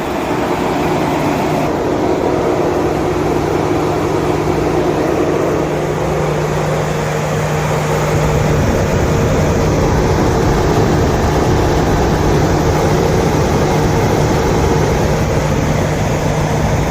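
Electric cooling fans of a 2014 GMC truck running steadily at full high speed, with the engine running; a low hum within the noise stops about halfway through. The fans stay on high while the coolant temperature reads low, with a P0128 code set.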